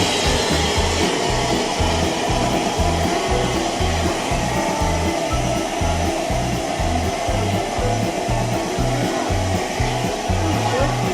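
A steady, loud hiss, with music carrying a low stepping bass line underneath.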